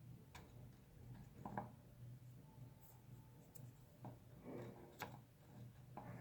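Small stones being set by hand into a cement fireplace bowl around an aluminium cup: faint, scattered clicks and short scrapes, the sharpest about five seconds in, over a low steady hum.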